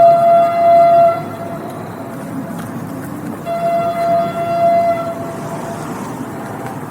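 Train horn sounding two long blasts on one steady pitch, the first ending about a second in and the second starting around three and a half seconds in, over the continuous rumble of the passing train.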